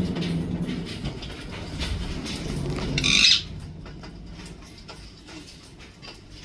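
A parrot gives one short, loud, harsh screech about three seconds in, over a low steady hum that stops at the same moment. Afterwards only faint scattered clicks remain.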